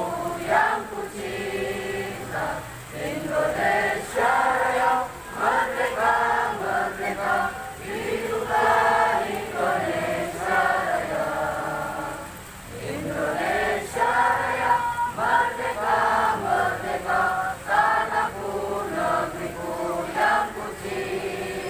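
Many voices singing together in chorus, a devotional song at a sholawat gathering, with a brief lull about halfway through.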